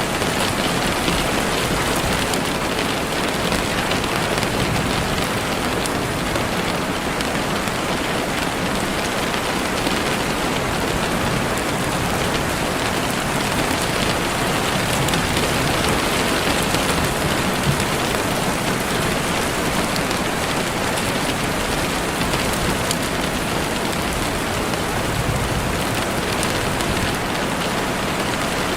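Steady heavy rain falling on leaves and the forest floor, a dense even hiss of drops.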